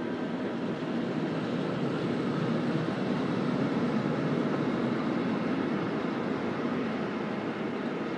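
Freight train of tank wagons rolling past at steady speed: a continuous rumble of wheels on rails that swells a little in the middle and then eases.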